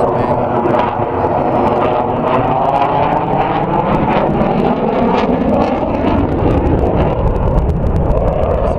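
Aircraft flying past, a loud steady engine roar whose tone sweeps down and then back up as it passes.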